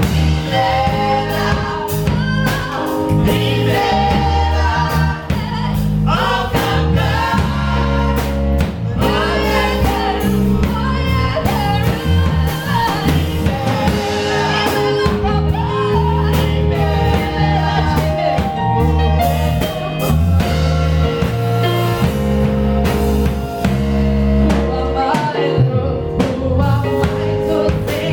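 Live gospel worship song: a choir singing over a band, with heavy bass and steady drums.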